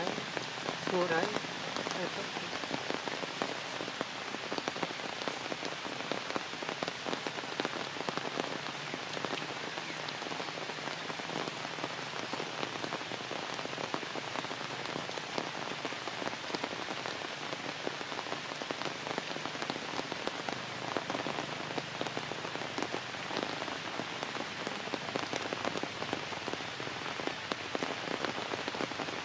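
Heavy rain falling steadily on forest leaves and branches, a dense patter of drops. A short call is heard about a second in.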